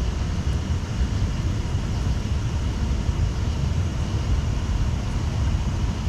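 Steady low rumble with an even hiss over it, unbroken throughout.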